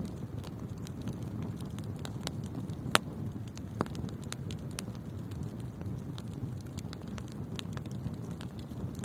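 Wood fire burning in a fireplace: a steady low rumble of flames with frequent sharp crackles and pops, the loudest pop about three seconds in.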